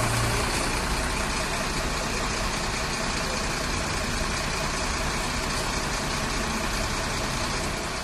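Fire truck engine idling steadily, a low even hum with no siren.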